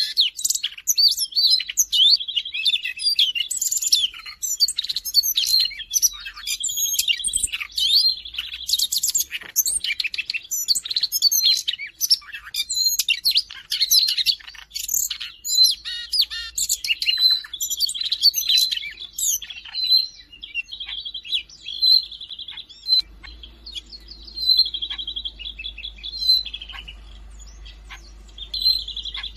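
Siberian rubythroat singing: a long run of rapid, varied chirps, whistles and trills, dense at first and breaking into shorter, sparser phrases in the last third.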